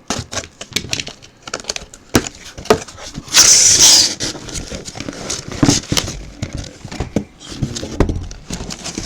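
Handling sealed trading-card boxes and their plastic wrap: crackling, clicks and knocks, with a loud scratchy rip lasting under a second about three seconds in.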